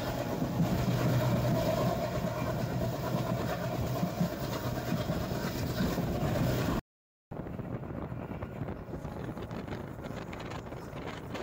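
Express train running on the rails, a steady loud noise with a held mid-pitched tone. About seven seconds in the sound drops out completely for half a second and comes back quieter and duller.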